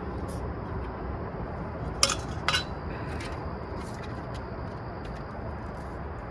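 Two sharp metallic clinks about two seconds in, half a second apart, from camp cooking gear being handled, with a few lighter taps around them over a steady low background rumble.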